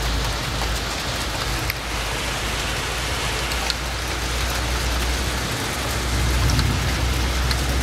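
Downpour of thunderstorm rain falling steadily, with scattered drop ticks over a constant low rumble that grows a little louder near the end.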